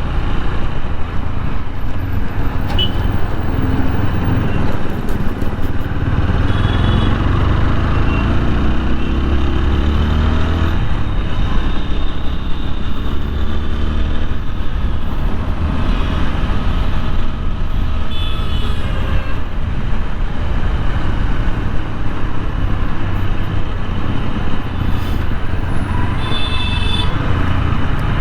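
Wind rushing over a helmet-mounted microphone while a TVS Apache 160 4V's single-cylinder engine runs on the road, its pitch rising as it accelerates several seconds in. Traffic noise around, with a few short high-pitched beeps.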